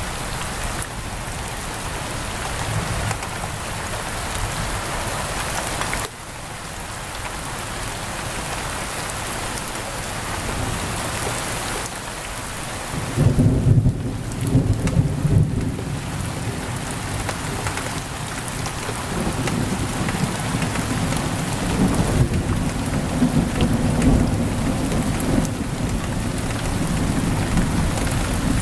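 Steady heavy rain pattering on window glass, with a low rolling rumble of thunder coming in about halfway through and swelling again near the end.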